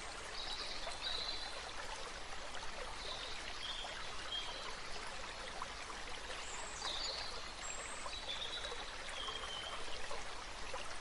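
Steady rushing like running water, with faint short high chirps recurring every second or two.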